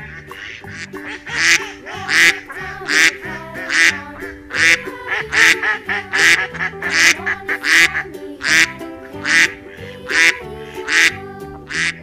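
Duck quacking over and over, about one quack every three-quarters of a second, over steady background music.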